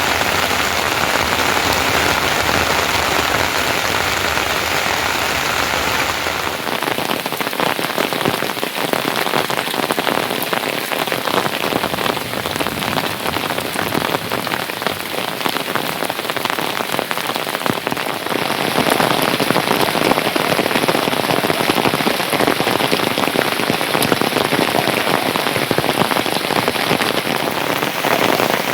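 Steady rain falling, a dense patter of drops hitting surfaces. Its sound changes abruptly twice, about six seconds in and again after about eighteen seconds.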